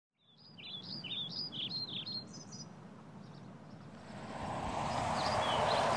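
Outdoor ambience with a songbird singing: a quick run of short, high chirping notes over the first two and a half seconds, then a few fainter calls. From about four seconds in, a steady rush of outdoor noise grows louder beneath them.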